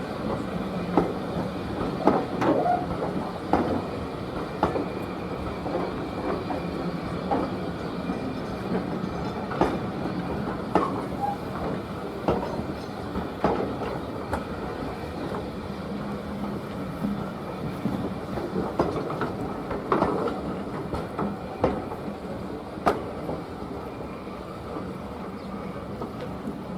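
Railway coaches running along the track, their wheels clicking and knocking irregularly over rail joints above a steady rumble.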